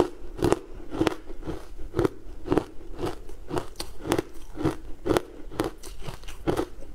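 A person chewing a mouthful of crunchy green frozen food with the mouth closed. The crunches come in an even rhythm, about two a second.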